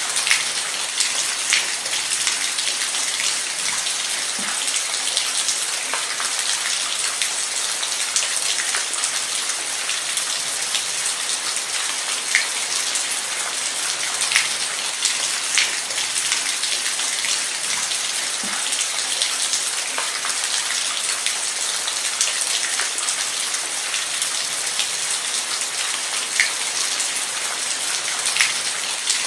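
Steady rain with individual drops ticking now and then.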